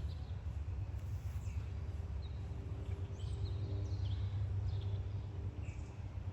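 Birds chirping now and then in short, falling chirps over a steady low rumble.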